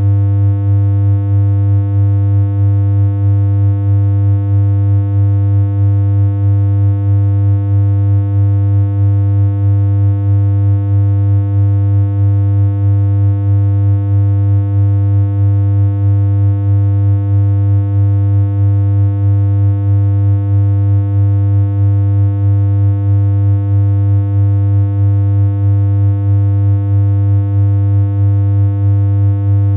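A steady synthesized electronic hum: one low droning tone with a stack of overtones, holding the same pitch throughout, with a slight regular pulse in loudness.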